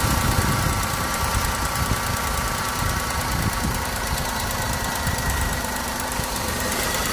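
Maruti Suzuki WagonR K-series petrol engine idling unevenly, with an irregular low-pitched beat, the sign of a misfiring cylinder.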